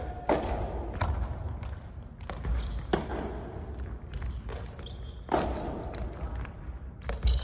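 Soft tennis rally: a rubber soft tennis ball struck by rackets and bouncing on the court, heard as a series of sharp, irregularly spaced hits.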